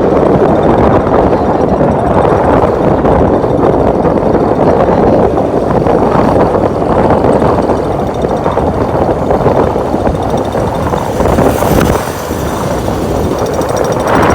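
Motorcycle riding noise: the running engine and road rumble under a steady rush of wind over the microphone, easing slightly near the end.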